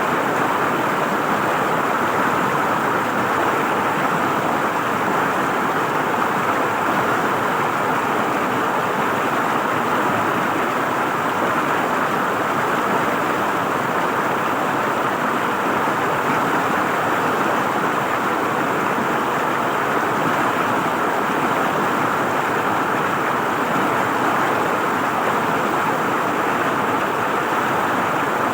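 River water flowing and gurgling over stones in a steady rush.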